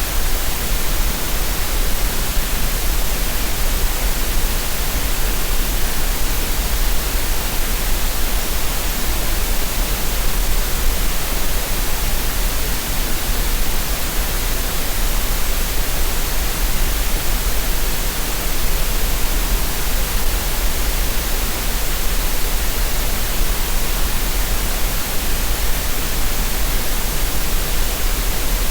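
Green noise: a steady, unchanging synthetic hiss with no rhythm or events, played as a relaxation and tinnitus-masking sound.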